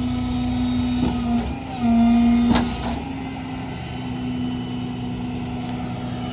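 A car engine running steadily at idle, with a couple of sharp clicks.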